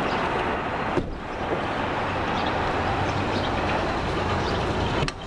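Steady vehicle and traffic noise, with a sharp click about a second in and another click near the end.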